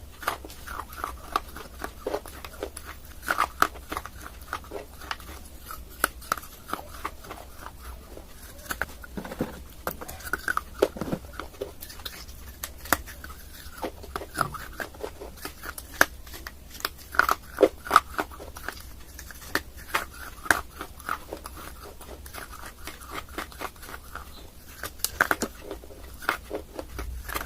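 Close-miked biting and chewing of dry clay: irregular sharp crunches and crackles, several a second, with short pauses between bites.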